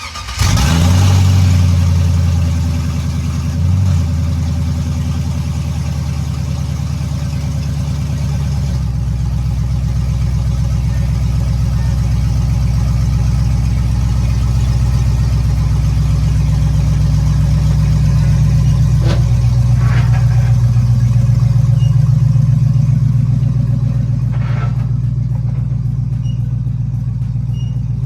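V8 engine of an LS-swapped box Chevy firing up and rising quickly in revs, a short blip about four seconds in, then settling into a steady idle. A few light knocks sound over the idle in the second half.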